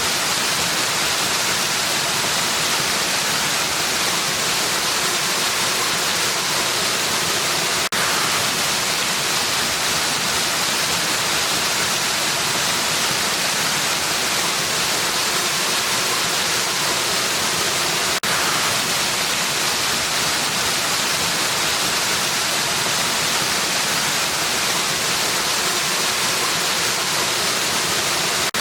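Waterfall pouring steadily, a dense, even rush of water strongest in the hiss range, with two momentary dips about eight and eighteen seconds in.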